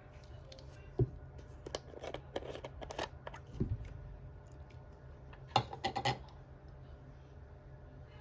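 Paper being handled: light rustles, taps and clicks in short clusters, the sharpest about a second in and again a little past the middle, over a faint steady low hum.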